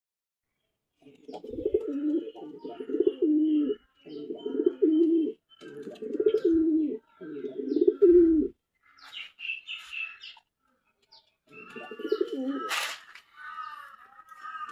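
Pigeons cooing in four long repeated coo phrases, then another coo a few seconds later. Higher chirps from small birds come in around the middle and near the end, with one brief sharp noise near the end.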